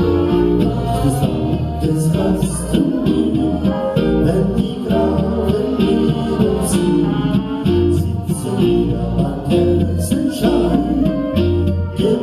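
Live folk band music with singing, over a steady beat and a repeating bass line.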